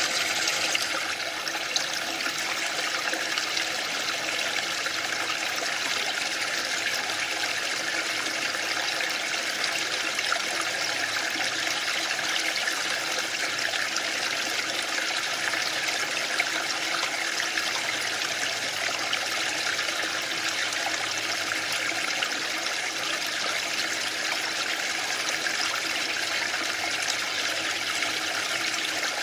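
Waterfall: a steady, even rush of falling water, slightly louder in the first second.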